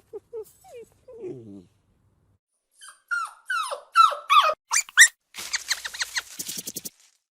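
A dog whining and yelping: a run of high-pitched cries, each falling sharply in pitch, starting about three seconds in, followed by a short rasping stretch near the end.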